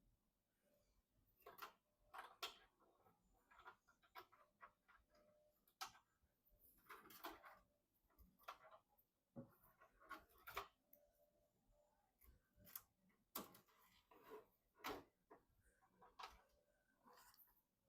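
Quiet, irregular clicks, taps and small rattles of computer parts and tools being handled during PC assembly, a dozen or so short sounds spread across the stretch.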